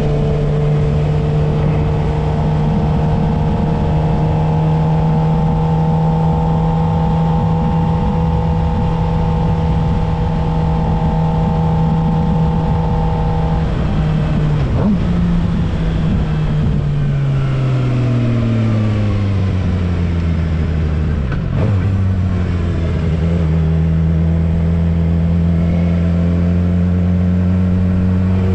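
Suzuki GSX-R750 inline-four engine on the move: it holds steady revs for about thirteen seconds, then falls away as the bike slows. After a brief break in the sound it runs at low steady revs, and near the end the revs rise again as it accelerates.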